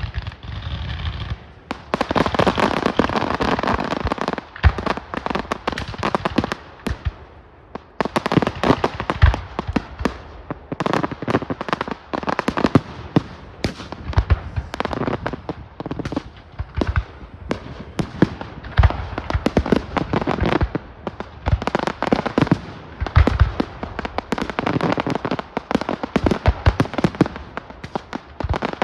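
A fireworks display going off: rapid, near-continuous bangs and crackling, with a brief thinner stretch a few seconds in before the barrage picks up again.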